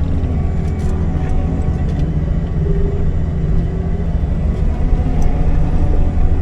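CAT 310 excavator's diesel engine running steadily under work, a deep drone, with a brief higher steady tone joining it about two and a half seconds in.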